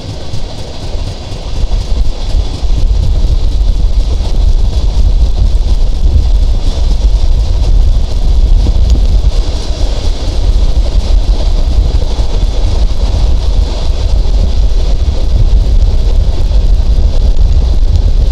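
Sundarban Express intercity passenger train running at speed: a steady deep rumble with rushing noise, which gets louder about two seconds in.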